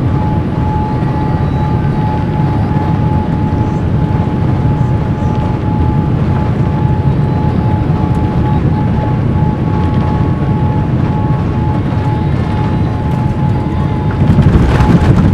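Steady low rumble of a Boeing 787 airliner's cabin in flight on descent, with a steady hum tone through it; it grows louder near the end.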